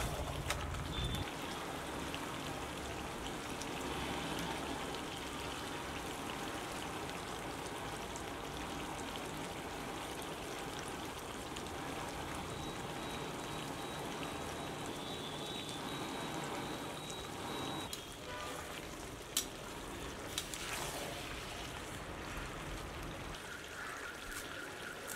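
Food sizzling steadily in a pan, with two short knocks about three-quarters of the way through.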